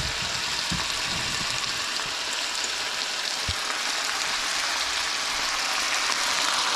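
Sliced potatoes and onions sizzling steadily in a skillet as they fry, with a few light knocks in the first second and a half and one more about halfway through.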